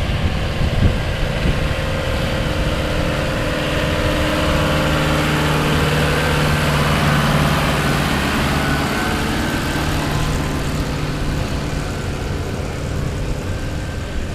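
Modified Ford F-350 diesel pickup engine running steadily at a held pitch, swelling a little louder in the middle.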